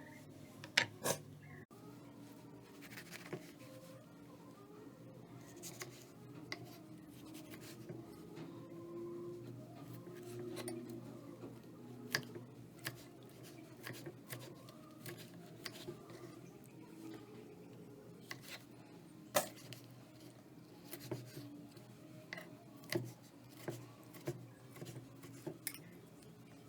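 Kitchen utensils clicking and tapping at irregular intervals, sharp short knocks scattered through, over a low steady hum.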